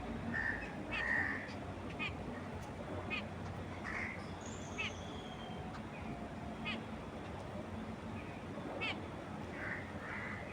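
Several birds calling over a steady low rush of wind. A short chirp repeats about once a second, with a few fuller calls and a brief high whistle among them.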